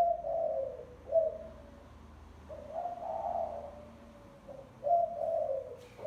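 Spotted dove cooing: repeated phrases of low coos, a short note followed by longer drawn-out ones, several phrases in a row. This is the spotted dove song used as a lure call.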